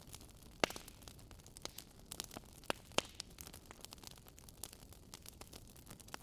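Wood campfire crackling: a steady scatter of small snaps with a few sharper pops, about a second in and around three seconds in, over a faint steady hiss.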